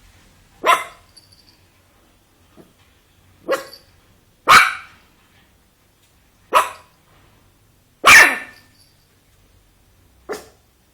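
A dog barking in an agitated fit: about six single, sharp barks, spaced a second or two apart, with the loudest near the middle and near two-thirds through.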